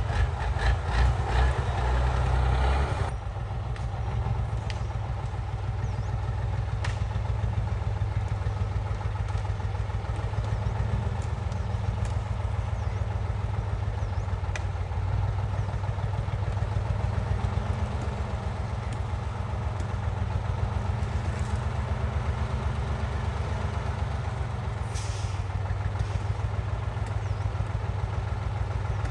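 Loaded log truck's engine running steadily with a fast, even low pulse. It is louder and fuller for the first three seconds, then settles to a steady lower level.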